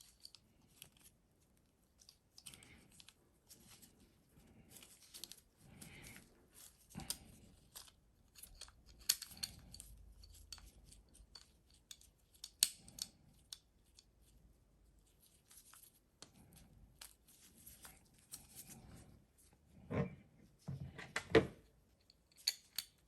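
Irregular clicks, scrapes and light knocks of starter motor parts being handled and fitted together by hand, with two louder knocks near the end.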